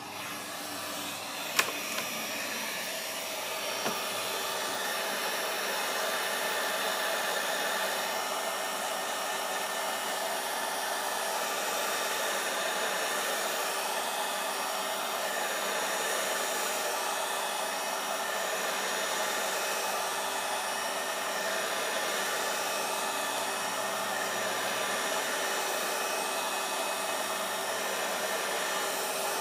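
Hot-air blower running steadily, heating the Kindle Fire's glued front screen assembly to soften the adhesive. A couple of sharp clicks come about two seconds in.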